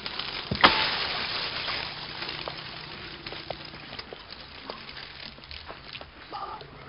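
Hiss and crackle of an old film soundtrack, with scattered clicks and one sharp click about half a second in.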